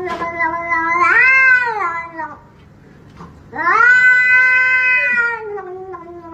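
A grey cat yowling at a hand reaching toward it: two long, drawn-out calls, each rising and then sliding down in pitch, with a short pause between them a little after two seconds in.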